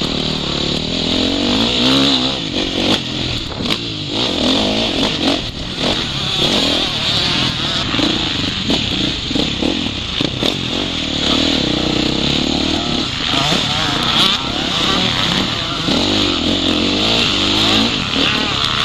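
Motocross bike engine revving up and down as it is ridden hard, pitch rising and falling again and again, under a steady rush of wind noise, with scattered sharp knocks, heard from the rider's goggle-mounted microphone.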